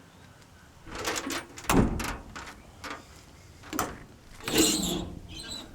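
Clanks and knocks of a metal storage compartment on a truck's service body being opened, with a short scraping rush about four and a half seconds in.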